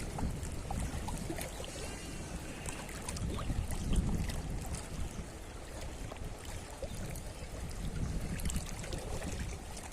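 Wind gusting on the microphone, an uneven low rumble that swells and fades, with a faint wash of water behind it.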